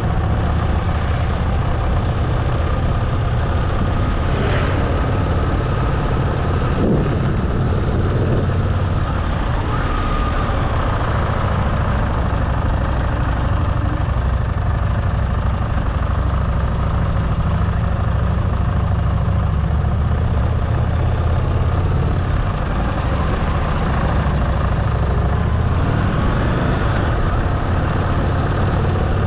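Motorcycle engine running steadily under way, a continuous low drone with small shifts in pitch now and then.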